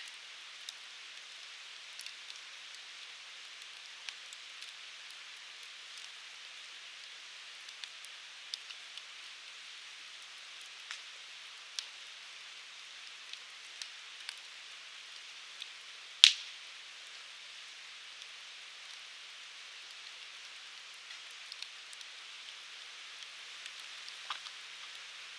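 Wood fire burning with a steady hiss and scattered sharp crackles, and one much louder pop about 16 seconds in.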